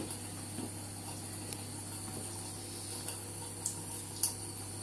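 Kitchen tap running steadily into a sink, under a constant low hum, with a few short high ticks about three and a half and four seconds in.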